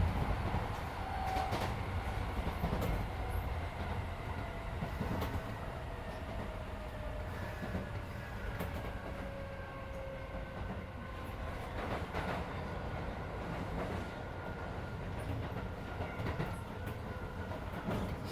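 Running sound inside a Keisei 3400 series electric train car at speed: a steady low rumble of wheels on rail, with a few clicks over rail joints and a faint whine that slowly falls in pitch.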